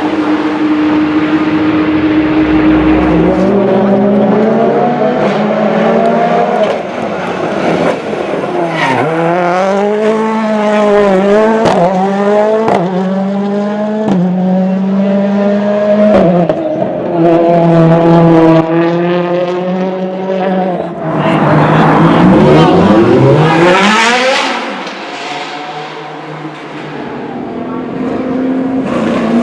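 High-performance car engines at high revs. They accelerate through several upshifts, rise and fall in pitch, and sweep past at speed.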